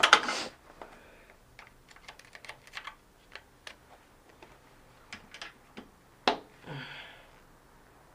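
A sharp metal knock, then a run of small irregular metallic clicks and taps, with another knock and a brief scrape about six seconds in: a screwdriver knocking and prying at a stuck part of a spin bike's bearing assembly.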